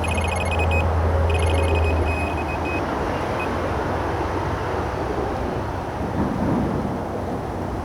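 Electronic carp bite alarm giving runs of rapid high-pitched beeps for about the first three seconds, then one last beep. The line is only being lifted up and down by weed and debris coming down the river, not taken by a running fish. Steady road traffic noise from the nearby bridge runs under it.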